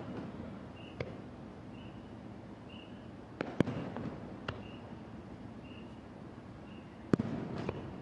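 Aerial fireworks shells bursting, a series of sharp bangs with a rumbling echo after each, spaced irregularly and loudest about three and a half and seven seconds in.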